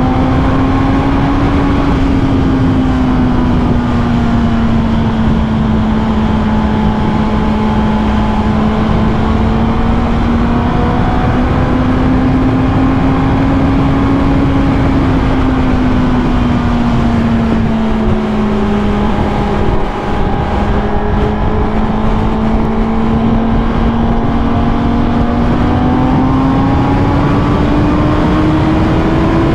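Motorcycle engine running steadily at cruising speed over a constant rush of noise, its pitch drifting gently down and up and climbing near the end.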